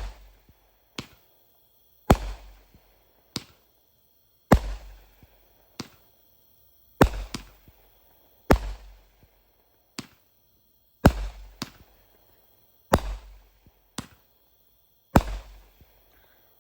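Consumer aerial fireworks going off: a loud bang about every two seconds, most followed a second or so later by a smaller pop.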